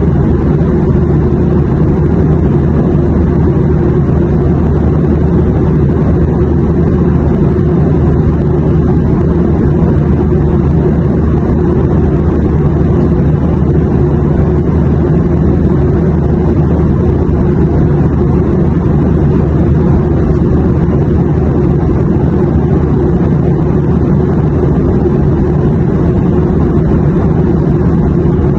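Steady airplane drone: a constant low rumble, heaviest in the bass, that never changes.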